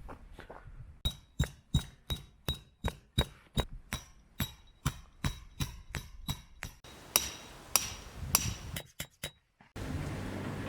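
Hammer blows with a metallic ring, struck evenly at about three a second, then a few slower, heavier blows. Near the end the sound cuts off abruptly to a steady low hum.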